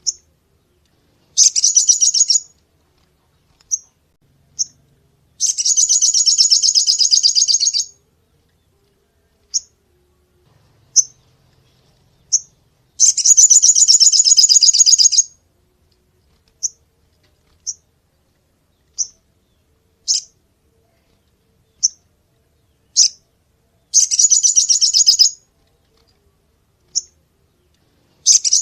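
A crested jay (sogon) calling in full voice: short, sharp, high single calls spaced irregularly, broken by rapid high trills that each last one to two and a half seconds.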